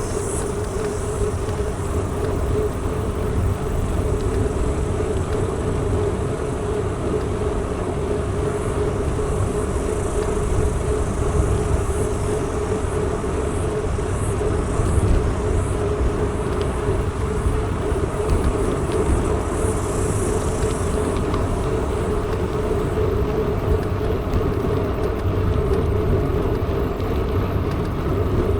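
Mountain bike rolling steadily along: a constant tyre hum and low wind rumble on the microphone, with faint high chirps now and then.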